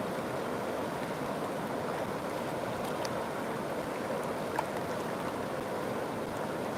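River water flowing steadily, an even rushing with a couple of faint ticks in the middle.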